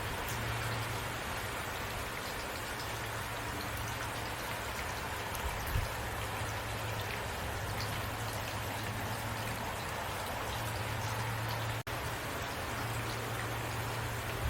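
Heavy rain falling steadily, a dense even hiss of many drops, with a low steady rumble underneath. The sound cuts out for an instant about twelve seconds in.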